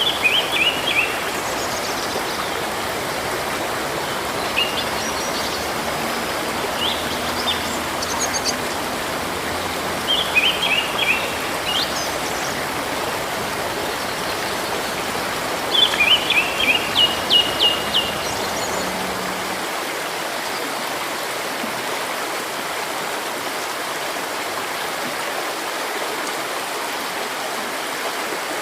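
A stream rushing steadily, with a small songbird calling over it in several quick runs of high chirps during the first two-thirds; after that only the water is heard.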